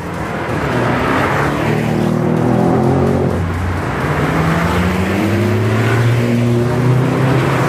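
Car engine accelerating hard, its note climbing in two long pulls with a brief drop about three and a half seconds in. The engine is loud.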